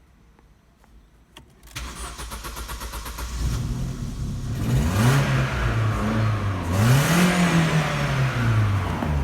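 An Opel Astra G's 1.6-litre Z16XE four-cylinder petrol engine, cranked by the starter about two seconds in, catching, then revved twice and falling back to idle each time.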